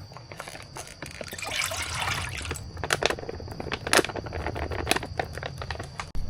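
Liquid pouring and splashing, followed by a few sharp clicks and knocks.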